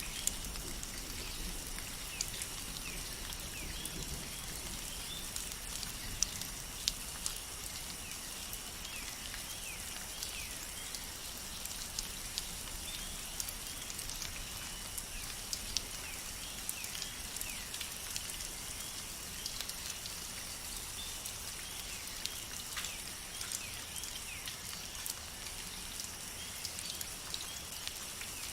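Steady rain with scattered louder drips, under a steady high-pitched hum and many short, falling chirps from small animals.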